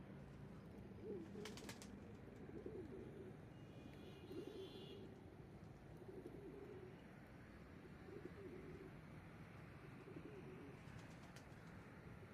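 Pigeons cooing softly, with short low coos repeating about once a second.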